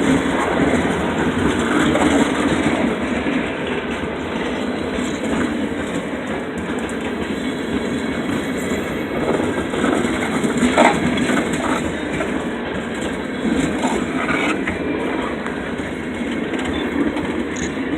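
Freight train of tank cars rolling past on the track: a steady rumble of wheels on rail with scattered sharp clicks from the wheels over the rail joints.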